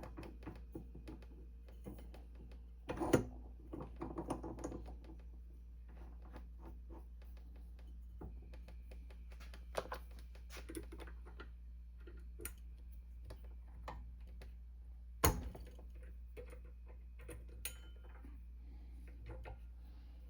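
Scattered light clicks and small metal clinks from tools and parts being handled, with two sharper knocks, one about three seconds in and a louder one about fifteen seconds in, over a steady low hum.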